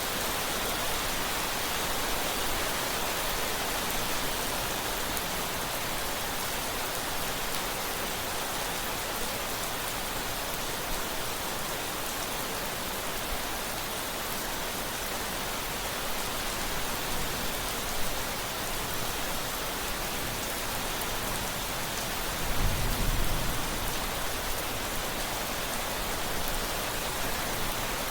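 Steady rain pattering down, with a brief low rumble of thunder near the end.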